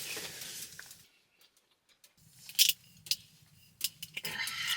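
A few short, sharp clicks and knocks of small objects being handled, the loudest about halfway through, after a brief near-silent moment.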